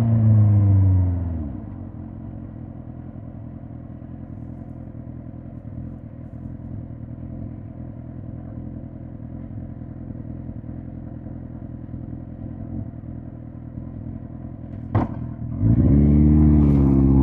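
Suzuki GSX-R1000 K5's inline-four engine winding down as the bike slows, then idling steadily for about fourteen seconds. A sharp click near the end, then the engine revs rise as the bike pulls away.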